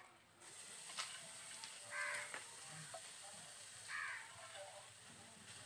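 Flaked boiled katla fish going into a wok of hot oil and fried spices, with a faint steady sizzle starting about half a second in and a light tap about a second in. A bird calls twice, about two seconds apart, louder than the sizzle.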